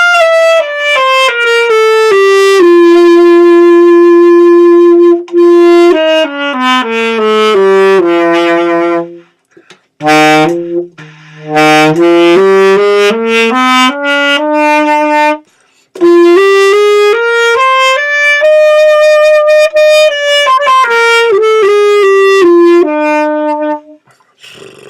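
Saxophone playing scales from memory in three runs: one stepping down with a long held note early on, then two that climb and come back down. The player's embouchure is out of practice and already tiring.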